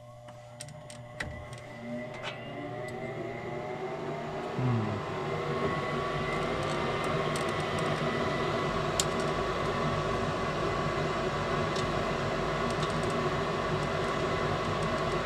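A few clicks, then a Trane S9V2 gas furnace's motor spins up with a rising whine over about five seconds and settles into a steady hum with rushing air.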